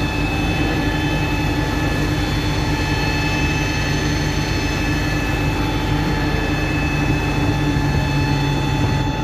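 A heavy engine running steadily, with several steady high whining tones over a dense rumble.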